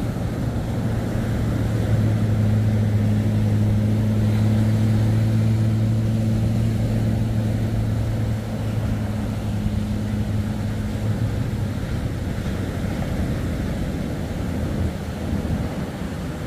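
An engine runs at a steady low pitch over the wash of surf and wind, fading out about eleven seconds in.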